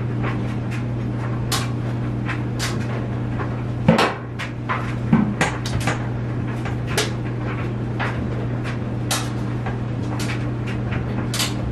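Household handling sounds: a string of light clicks and knocks, like things being set down or a cupboard worked, with a couple of louder knocks about four and five seconds in, over a steady low hum.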